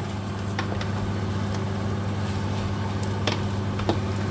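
Mutton cooking in a pot, with a few sharp clicks and pops over a steady low hum.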